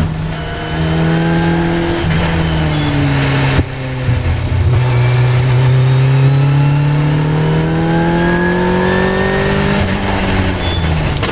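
Caterham R400's four-cylinder engine heard from on board during a hard track lap. The engine note falls as the car slows for a corner, and a sharp click comes with a gear change about three and a half seconds in. The note then rises steadily through a long pull under acceleration and drops again near the end as the car slows.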